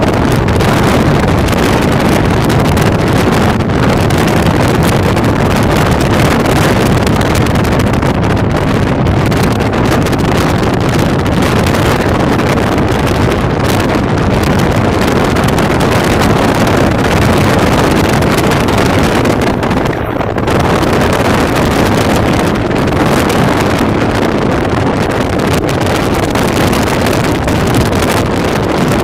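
Wind buffeting the microphone: a loud, steady rushing noise with a brief dip about twenty seconds in.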